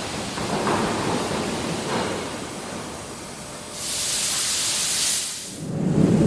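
Industrial machinery ambience: a rough noise bed, then a hiss of venting gas lasting under two seconds. It dips, and a low, steady machine hum starts near the end.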